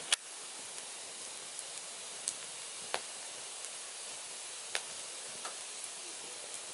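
Firewood burning: a steady hiss broken by sharp crackles and pops every second or two, the loudest right at the start.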